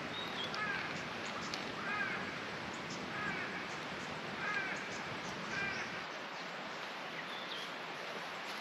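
A bird calls five times, about a second apart, over a steady background hiss. A short high whistled note comes near the start and again near the end, with faint crackling ticks from the campfire.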